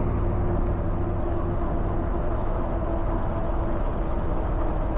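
Steady wind rumble and road noise while riding an e-bike, with a faint steady whine running through it.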